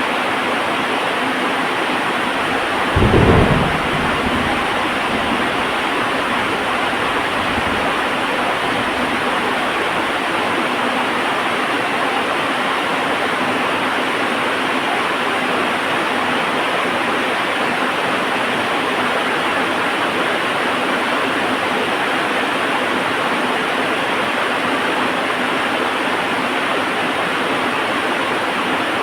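Heavy, steady rain, with a loud thunderclap about three seconds in that rumbles away over the next several seconds.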